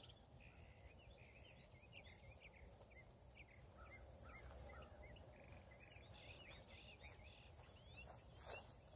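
Faint outdoor birdsong: many short chirps and whistled calls scattered throughout, over a low steady background rumble.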